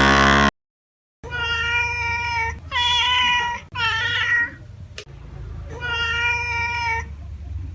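Domestic cat meowing four times, drawn-out calls, the third rising then falling in pitch. Before them, the end of a loud low call cuts off about half a second in.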